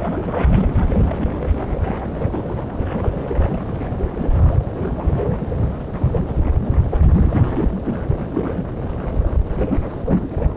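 Wind buffeting the microphone of a camera fixed to a moving bicycle, a loud rumbling gust noise that rises and falls, with a few light rattling ticks near the end.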